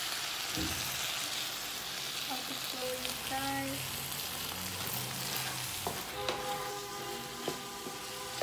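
A vegetable curry of potatoes, mushrooms and green beans sizzling in a pot while a wooden spoon stirs it, with a few sharp knocks and scrapes of the spoon against the pan.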